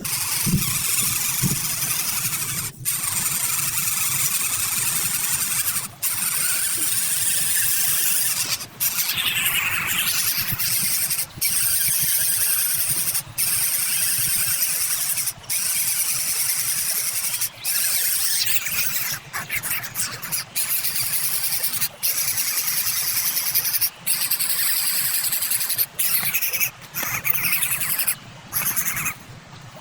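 Birds screeching: a continuous harsh, high-pitched squealing that breaks off for a moment every two or three seconds.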